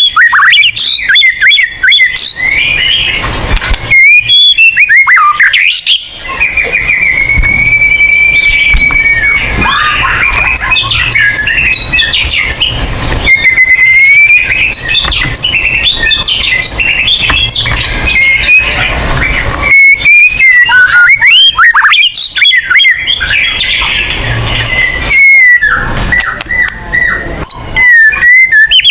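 White-rumped shama (murai batu) singing in full song: a long, loud, varied run of rapid whistles, slurred glides, trills and sharp chattering notes, with brief pauses between phrases.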